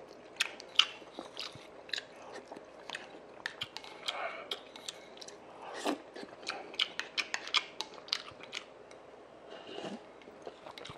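A person chewing a mouthful of sundae-gukbap, blood-sausage and pork soup with rice: many sharp wet mouth clicks and smacks.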